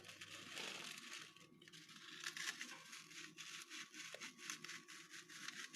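Faint crinkling and tearing of a cracker package being opened by hand: a run of quick, small crackles.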